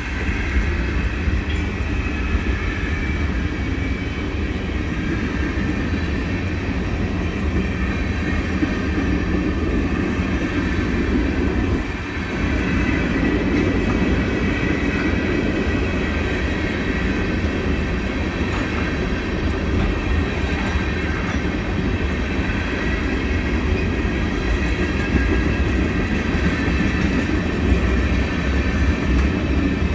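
Freight train tank cars rolling steadily past: a continuous low rumble of wheels on the rails.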